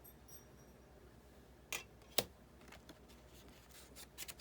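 Quiet room with two sharp clicks about two seconds in and a few faint ticks near the end, the sounds of hands handling the die-cutting plates, die and cut cardstock.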